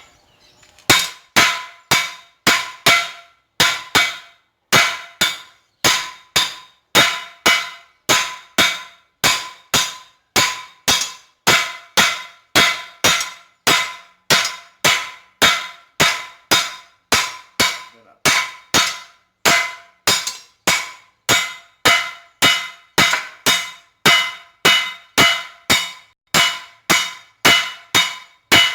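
Hammer blows forging a chainsaw bar on an anvil, about two strikes a second, each with a ringing metallic note. The thick bar is being drawn out thinner for a knife blade.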